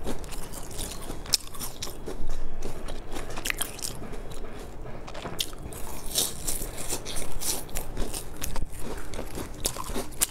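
Close-miked chewing and crunching of a flaky baked pastry cake, with irregular crisp crackles throughout.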